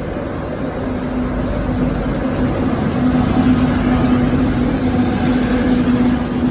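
A train running at the station, with a steady engine or motor tone over wide rumbling noise that grows louder about halfway through.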